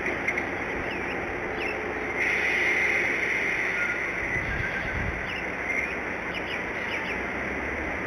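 Faint, short bird chirps scattered over a steady rushing background noise.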